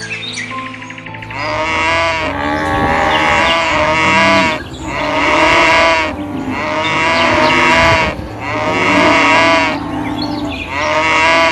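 Cattle mooing: a series of long, loud calls with short breaks between them.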